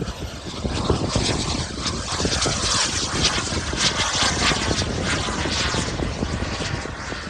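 Radio-controlled model airplane flying by low, its engine noise swelling after the first second and easing off toward the end.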